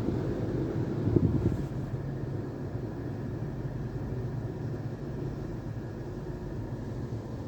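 Conveyor tunnel car wash equipment running, heard from inside the car: a steady low rumble and hiss, with a louder surge about a second in.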